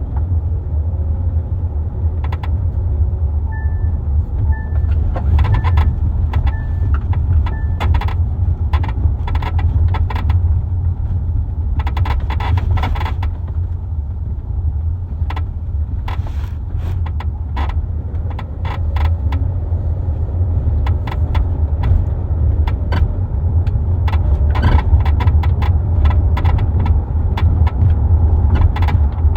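Creaking and clicking from the rear cargo area of a moving 2023 Kia Telluride, heard from inside the cabin over a steady low road rumble. The creaks are short and irregular and come in clusters. It is a worsening in-motion noise that the owner, following forum reports, suspects comes from the self-leveling rear shocks.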